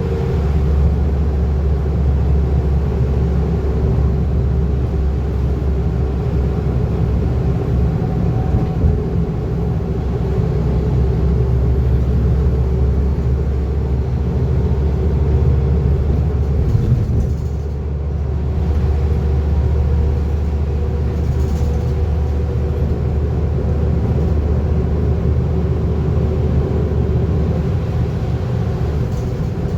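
Scania N230UD double-decker bus under way, heard from inside the cabin: steady engine and road rumble with a constant drivetrain hum, easing briefly about 17 seconds in before picking up again.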